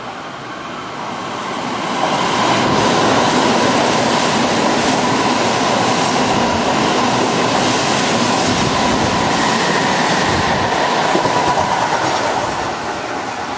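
Kintetsu electric train running through the station without stopping: wheels clattering over the rails with a steady whine, growing louder over the first two seconds, holding, and easing off near the end.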